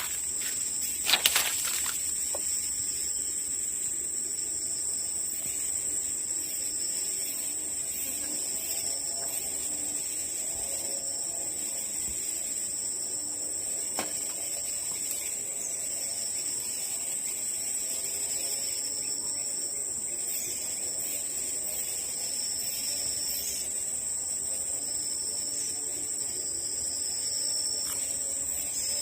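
Steady high-pitched drone of forest insects such as crickets or cicadas, with a short loud knock about a second in and faint low wavering calls from about eight seconds in.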